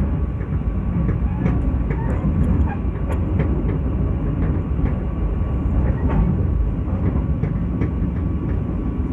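Passenger train coach running, heard from inside the carriage: a steady low rumble of wheels on the rails with scattered irregular clicks and rattles.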